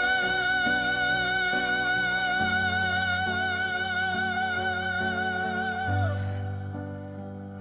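Closing bars of a Suno AI-generated song: a long held wordless vocal note with steady vibrato over sustained chords. About six seconds in it slides down and drops away, leaving soft, quieter keyboard notes.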